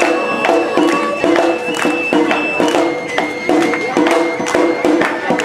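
Awa-odori festival band playing: a bamboo flute holds long high notes over rapid, steady strokes of shime-daiko and ōdaiko drums and a hand gong.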